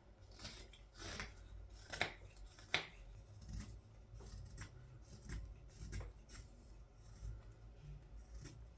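Carving knife slicing wild cherry wood in a series of separate crisp cuts, about one a second, the strongest about two seconds in. The strokes are cleaning up axe marks on the blank.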